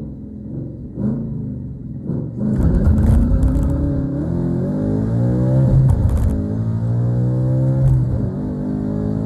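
Ford Mustang GT's 5.0 Coyote V8 under hard acceleration: a low rumble at first, then from about two and a half seconds in the engine note climbs steadily in pitch, with brief breaks about six and eight seconds in.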